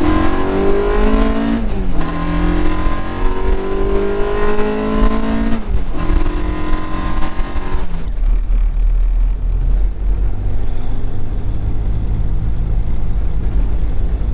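Honda four-cylinder VTEC engine accelerating hard through the gears: the revs climb, drop at a shift about two seconds in, climb again and drop at a second shift around six seconds, then climb once more. About eight seconds in the revving stops and only a steady low road and engine rumble remains as the car cruises or coasts.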